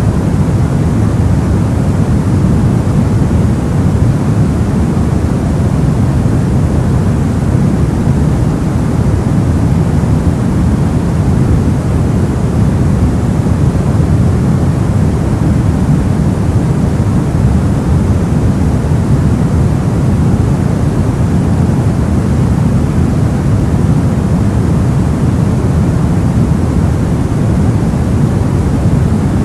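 Soft white noise for sleep: a steady, unchanging rushing hiss, deep and muffled rather than bright, strongest in the low range.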